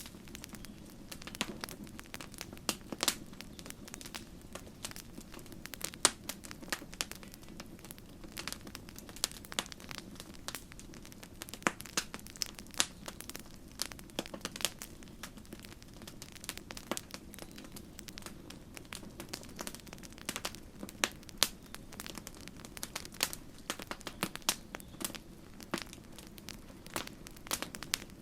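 Wood campfire crackling, with irregular sharp pops and snaps scattered over a steady low rush of the flames.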